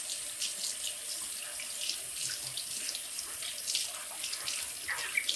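Water running steadily from a tap into a sink while a spoon is rinsed under it, with small splashes and the odd light clink.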